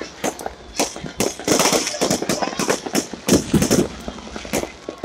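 New Year's fireworks going off in rapid, irregular bangs and crackles, with crowd voices underneath.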